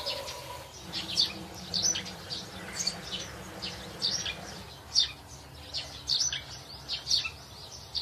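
Small birds chirping: short, high calls coming irregularly, one or two a second.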